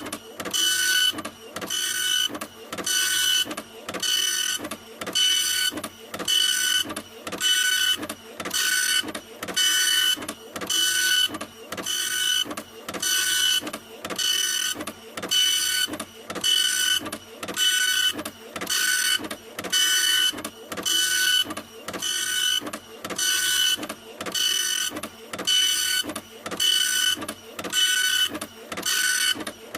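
A printer running, its print mechanism making a repeating whirring pass a little more than once a second, each pass carrying a steady whine with a short gap between passes.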